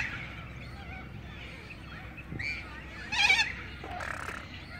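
Waterbirds at a park lake calling: a few short, wavering calls, the loudest about three seconds in.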